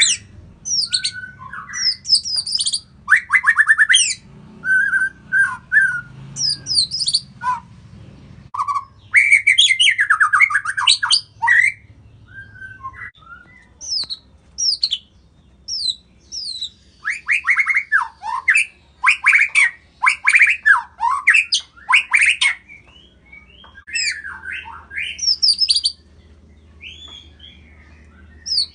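White-rumped shama (murai batu) singing: a varied song of fast chattering note runs and clear whistled phrases, coming in bursts with short pauses between.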